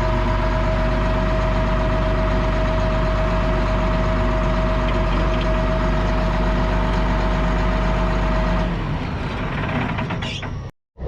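Heavy diesel engine idling steadily, with a steady whine over the engine note. Near the end the sound changes and then briefly cuts out.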